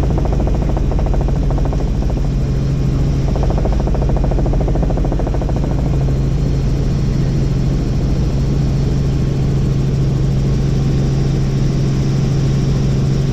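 Helicopter in flight: steady rotor and engine noise under a strong, unchanging low hum.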